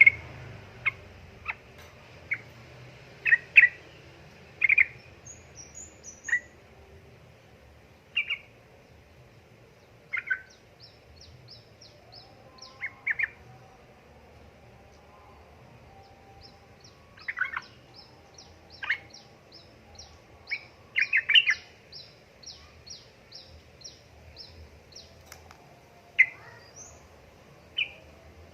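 Yellow-vented bulbul (trucukan) calling in short, sharp chirps at irregular intervals, some of them doubled or bunched into quick runs. A faint, fast series of thin, higher notes repeats in the background through the middle and later part.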